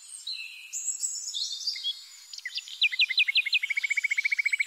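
Birds singing: varied chirps and whistles, then about three seconds in a run of five quick falling notes, followed by a fast, even trill lasting about a second.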